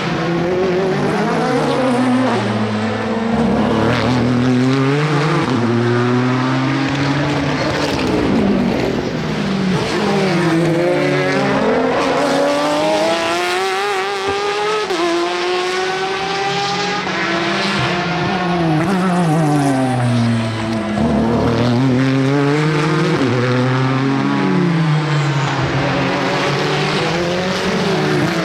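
Endurance race cars passing one after another, several engines heard at once. Their pitch keeps sweeping down and then climbing again as they shift gears, braking and accelerating through the corners.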